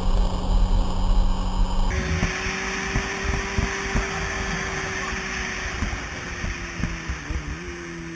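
Motorcycle engine running at steady revs, with low thumping wind buffet on the microphone. A cut comes about two seconds in, and the revs ease off and fall near the end.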